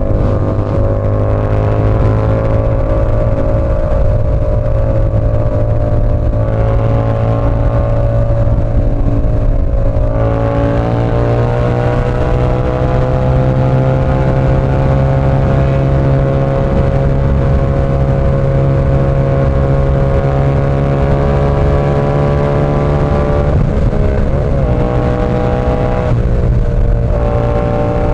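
Yamaha R7's 689 cc parallel-twin engine running through an SC Project CR-T exhaust while the bike is ridden at fairly steady revs. The note dips briefly about ten seconds in, then climbs slowly, with a short wobble in pitch a few seconds before the end.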